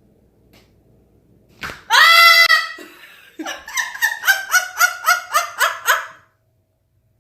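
A pet parrot gives one loud, high call, then a fast run of about nine short, laugh-like 'ha' calls.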